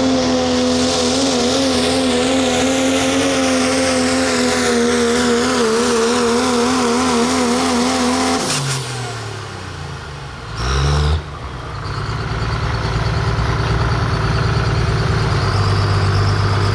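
Super modified four-wheel-drive pulling truck's engine held at full power under load, a high steady note with a slight waver. About eight and a half seconds in it lets off and the revs fall away. After a brief loud blast it settles into a lower steady rumble.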